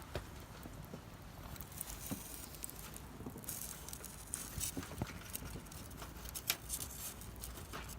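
Birch-wood campfire crackling: irregular sharp pops and snaps over a low steady rumble.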